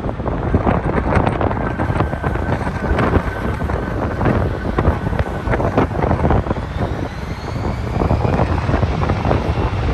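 Wind buffeting the microphone over the steady noise of a Boeing 787-9's jet engines, with a faint whine rising in pitch about two-thirds of the way in.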